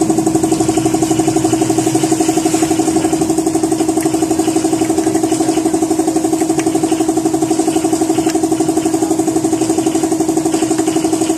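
A motor running steadily with a fast, even pulse, like an engine at idle.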